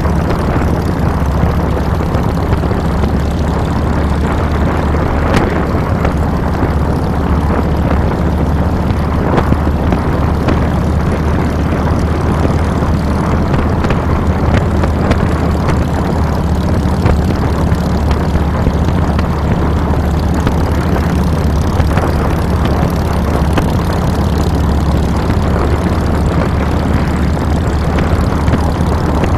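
2007 Harley-Davidson Fat Boy's Twin Cam 96B V-twin running steadily while the bike is ridden, its low exhaust note mixed with wind rushing over the handlebar-mounted camera's microphone.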